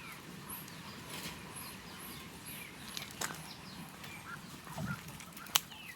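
Faint birds chirping and calling, with a short high chirp repeating about twice a second and scattered brief calls. Two sharp clicks sound about three and five and a half seconds in.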